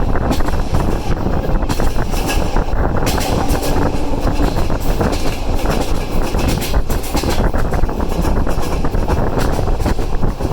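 Passenger train running along the track: a steady rumble of wheels on rail, with many quick clicks and rushing air.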